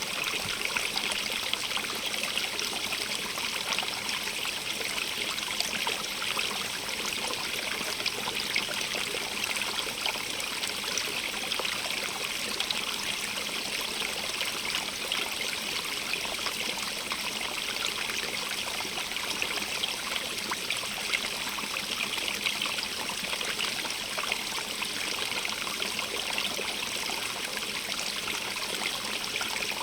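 Stream of running water babbling and trickling steadily over stones, an even splashing hiss with fine rapid droplet flickers.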